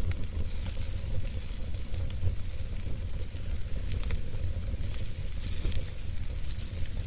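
Fireplace wood fire burning steadily, with a low rumble and hiss and scattered small crackles and pops.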